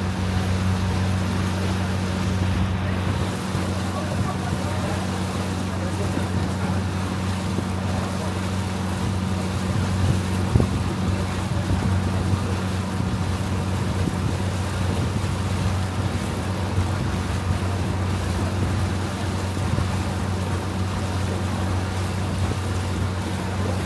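Tour boat's engine running at a steady low hum over water and wind noise, with one brief knock about halfway through.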